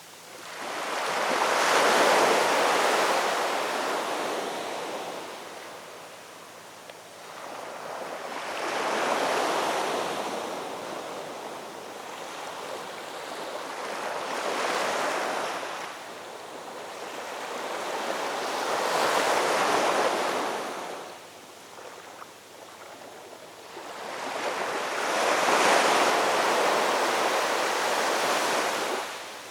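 Ocean waves surging in and washing back, about five swells in the span, each rising to a loud rush and fading over several seconds.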